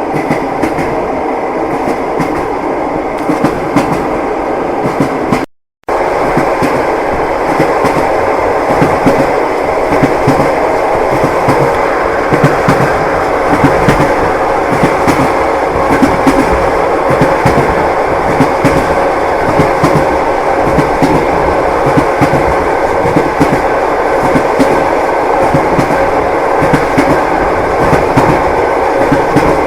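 Train wheels clattering over the rail joints with a steady rolling rumble and an irregular clickety-clack. The sound cuts out completely for a fraction of a second about five and a half seconds in, then resumes slightly louder.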